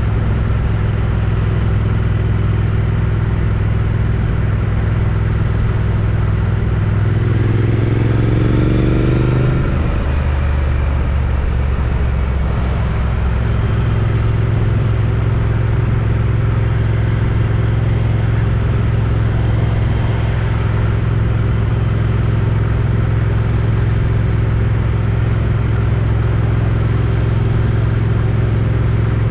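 Triumph Street Twin motorcycle's 900 cc parallel-twin engine, on its stock exhaust, running steadily under way, heard from a helmet chin mount. About seven seconds in the revs climb for a couple of seconds, then drop suddenly, and the engine settles back into steady running.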